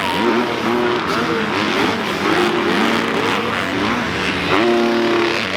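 Several youth motocross bikes racing, their engines revving hard and overlapping, each pitch climbing and dropping with throttle and gear changes.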